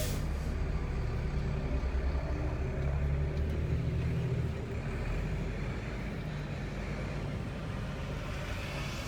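Steady low rumble of engine and road noise inside a moving vehicle, changing in character about five seconds in.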